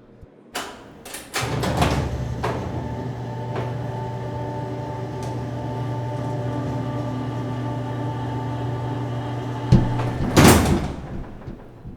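Sound-designed sci-fi spacecraft effects: a few sharp clicks and knocks, then a steady electrical hum with several held tones, ended near the end by a loud hissing whoosh like a sliding hatch.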